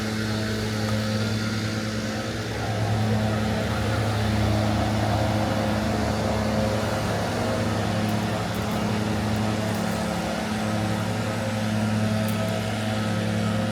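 A motor vehicle's engine running close by: a steady low hum whose pitch shifts slightly a few times.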